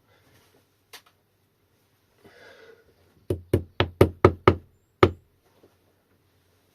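A tool knocking on the Sur Ron hub motor's shaft to drive out the woodruff key: a light click, then six sharp knocks in quick succession and one more half a second later.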